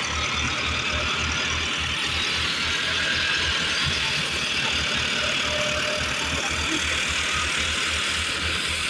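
Tractor engine running steadily under load as it drives a wheat thresher. A rapid low throb from the engine sits under the even rushing clatter of the threshing machine.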